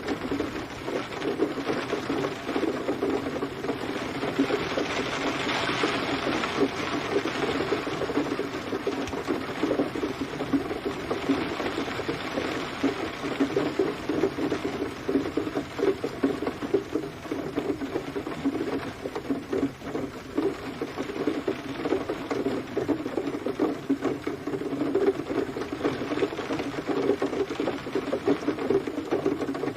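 Steady rain: a dense, even pattering of drops on a surface.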